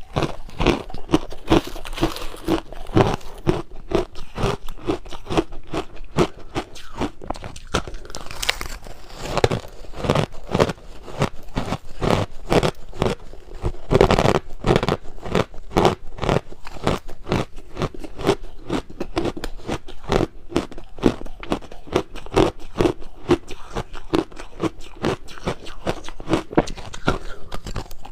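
Close-miked crunching and chewing of crushed ice: rapid, continuous crunches, several a second, as mouthfuls are bitten and chewed.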